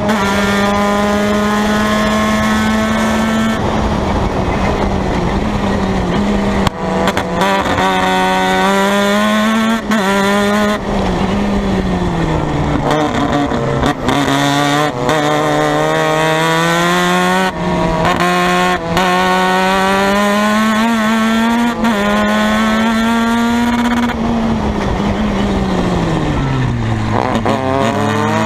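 Formula Mazda race car's rotary engine under hard racing, its pitch climbing through each gear and broken by brief cuts at the upshifts. Twice it drops away to a low note under braking and downshifts before pulling up again.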